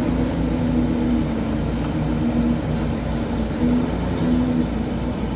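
A motor vehicle's engine running steadily, a continuous low hum and rumble.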